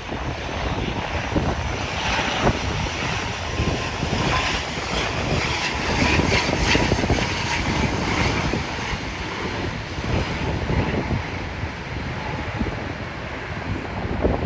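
ATR 72-600 turboprop airliner landing, its twin turboprop engines and propellers droning. The sound swells to its loudest around the middle, then eases off.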